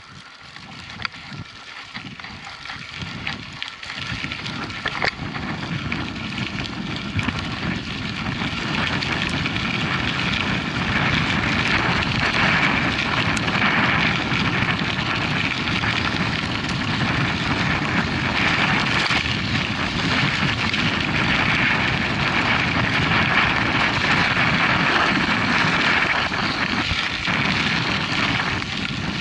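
Mountain bike riding on a dirt track: wind rushing over the action-camera microphone with tyre and gravel noise and scattered clicks, building up over the first several seconds as the bike gathers speed, then holding steady.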